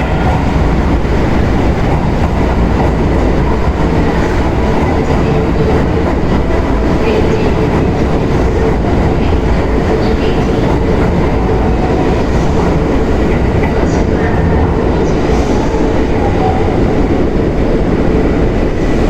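Hanshin Railway electric train running, a steady loud rumble of wheels and running gear with a faint steady hum.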